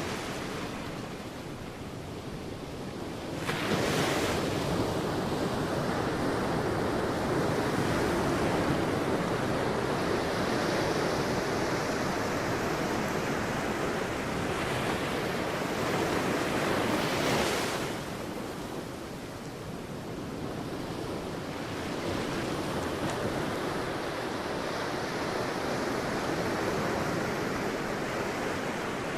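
Sea waves breaking on a beach and washing up the shore. A wave breaks about three and a half seconds in and its wash stays loud until about eighteen seconds, then the surf eases and builds again.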